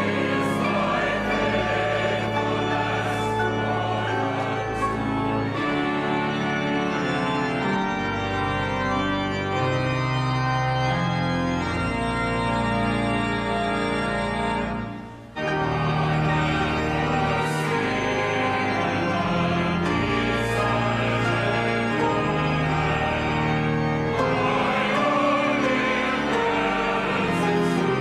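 Church music: organ playing sustained chords with voices singing. About halfway through it fades briefly and then starts again abruptly.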